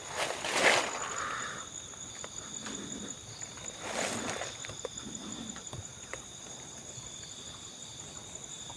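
Insects chirring steadily in the forest as two unbroken high tones. Two louder rustling noises break in, about half a second in and again about four seconds in, with a few soft low thuds between them.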